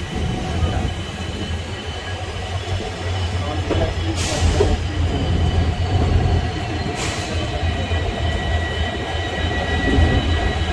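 Passenger train running, heard from on board: a steady low rumble with thin high-pitched wheel squeal held throughout. Two short hisses come about four and seven seconds in.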